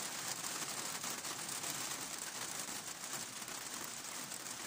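Light rain of a sun shower falling on tree foliage and the garden, a steady even hiss with fine pattering ticks.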